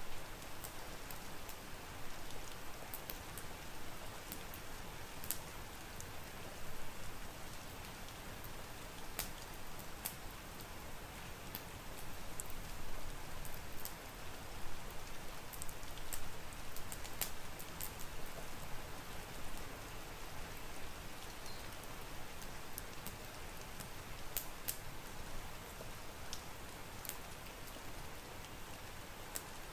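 Steady rain hiss mixed with a crackling wood fire, whose sharp pops and clicks come scattered and irregular over the rain.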